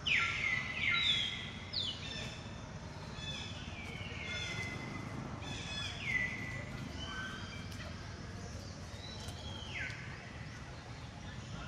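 Birds calling: a series of short falling whistles, several close together at the start and then a few seconds apart.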